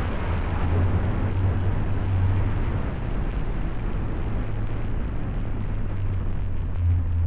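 2020 Subaru Impreza's flat-four engine and axle-back exhaust humming low while the car drives through snow, under a steady rush of tyre, road and wind noise. The engine's stronger note fades at the start and partly returns near the end.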